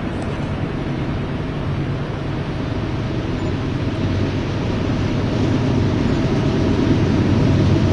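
Diesel freight locomotives rumbling, growing steadily louder as the train approaches.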